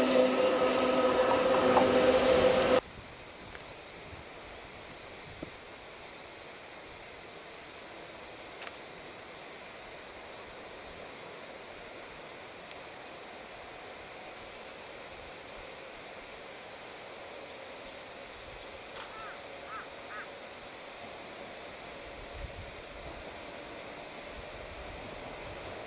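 A railway passenger train running with a loud, steady squeal for about three seconds, stopping abruptly. After that comes a steady quiet hiss.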